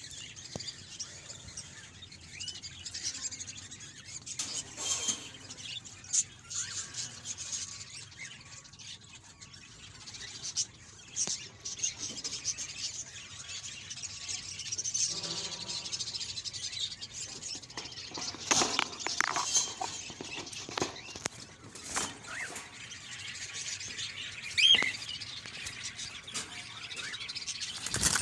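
Cockatiels chirping and calling, short high calls that rise and fall, with occasional sharp clicks among them.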